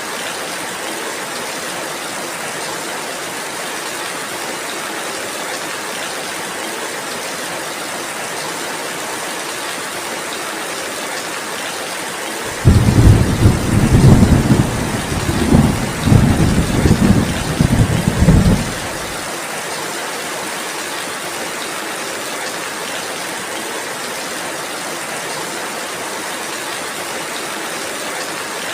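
Steady rainfall with a rumble of thunder about halfway through, running some six seconds in several surges before cutting off.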